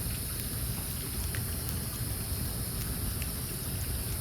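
Campfire of burning wood crackling, with a few scattered sharp pops over a low rumble of breeze on the microphone and a steady high hiss.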